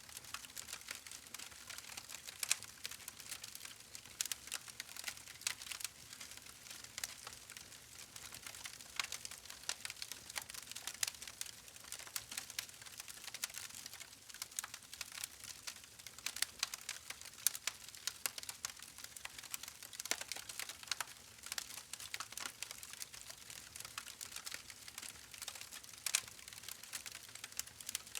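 Wood fire crackling: irregular sharp pops and snaps, many each second, over a soft hiss.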